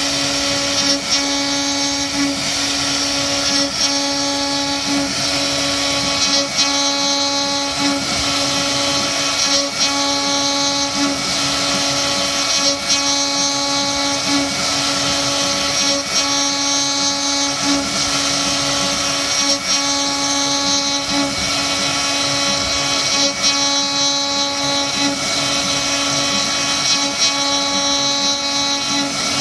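CNC router spindle running at a steady, high whine while its bit carves oak, with faint ticks recurring every second or so.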